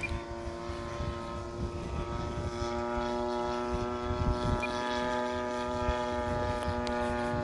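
Single-cylinder two-stroke DLE 35 gas engine of a large RC Van's RV-8 model airplane in flight, a steady propeller drone holding an even pitch. Wind gusts rumble on the microphone underneath.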